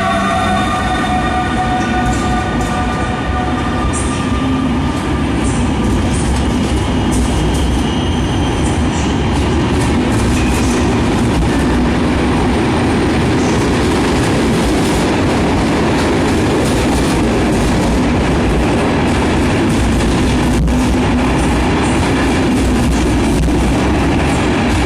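A passenger train hauled by an EU160 electric locomotive departs and rolls past close by, a loud steady rumble with wheel clatter. The tones of a horn die away in the first few seconds.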